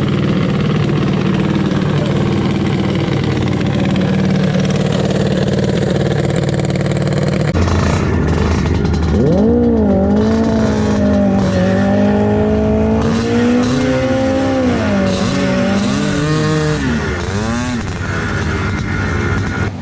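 Motorcycle engines running at a drag strip: a steady low idle for the first several seconds, then from about nine seconds in a bike revs, its pitch climbing and dipping repeatedly as it accelerates.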